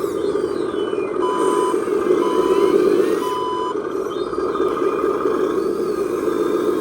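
Reversing beeper on an RC dump truck sounding three times, each beep about half a second long and a second apart, over a steady drone.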